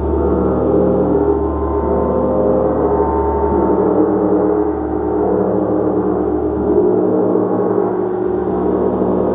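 A large gong played continuously, its sustained wash of many overlapping tones sounding steadily with gentle swells in loudness.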